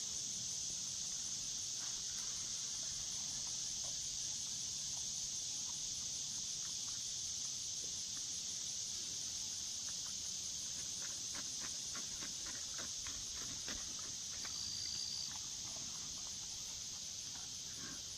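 Steady, high-pitched chorus of insects droning without a break, with a run of faint light clicks about two-thirds of the way through and one brief high note just after.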